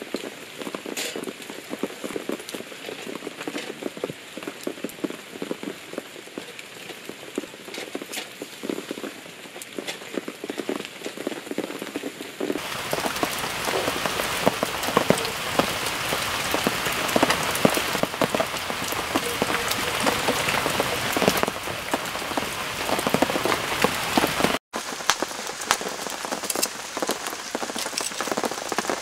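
Heavy rain falling, a dense hiss scattered with sharp drop ticks. It gets louder and fuller about twelve seconds in and cuts out for an instant near the end.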